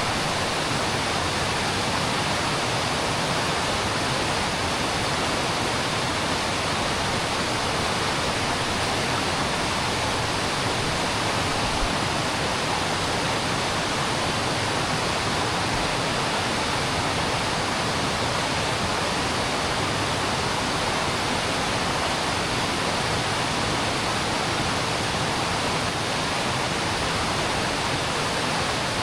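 Steady rushing of a mountain creek flowing over rocks, an even wash of water noise that does not change.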